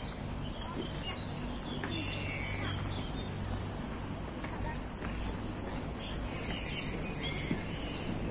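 Small birds chirping in the trees, short scattered calls coming every second or so, over a steady low rumble.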